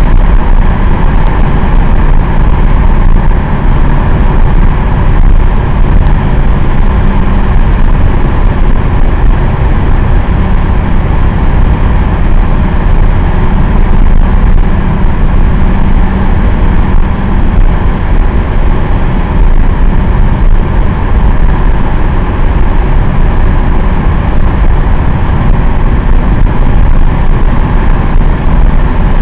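Mercedes-Benz 190D 2.5's five-cylinder OM602 diesel and tyre noise heard from inside the cabin, running steadily at a constant speed through a road tunnel.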